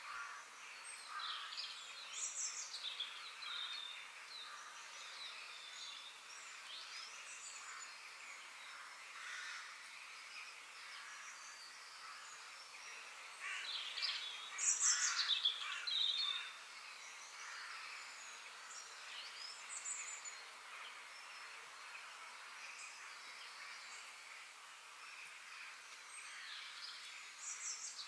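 Several wild birds singing and chirping in a forest over a steady background hiss, with a louder flurry of calls about halfway through.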